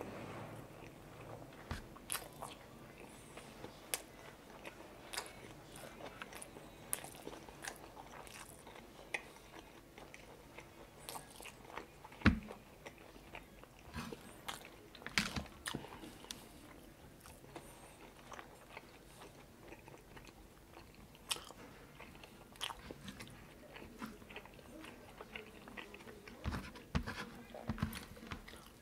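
A man chewing rice and chicken adobo eaten by hand, with wet mouth sounds and irregular sharp clicks and smacks throughout. One louder snap comes about twelve seconds in.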